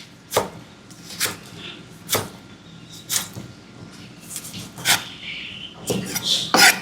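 Kitchen knife striking a cutting board in slow, separate chops, about one a second, a few quicker and louder near the end.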